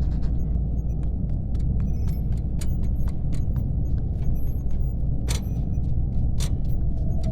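Steady low spaceship-interior hum with scattered light clicks like laptop keyboard clacks, two of them louder late on.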